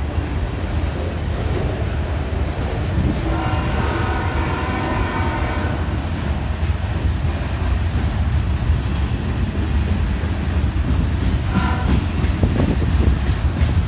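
Train rumbling past while the locomotive's air horn sounds a long chord blast about three seconds in and a short blast near the end. Wheels click over the rail joints toward the end.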